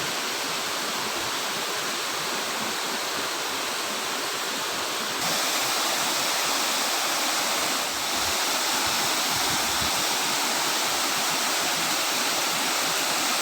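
Waterfall rushing with a steady, full roar of water noise that becomes suddenly louder about five seconds in.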